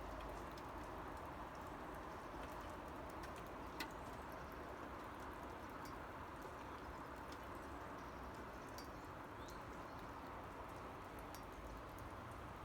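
Steady light rain falling, with scattered sharp drips ticking, one louder tick about four seconds in, and a faint bird call about three-quarters of the way through.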